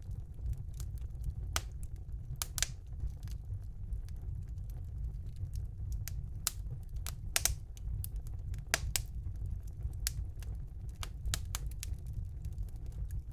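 Wood fire burning in a fireplace, crackling with irregular sharp pops and snaps over a steady low rumble of the flames; a few louder pops stand out, around the middle of the stretch.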